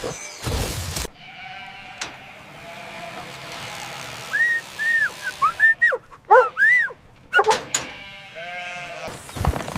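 Bleating animals: a series of short, arching, wavering calls between about four and nine seconds in, after loud knocking in the first second.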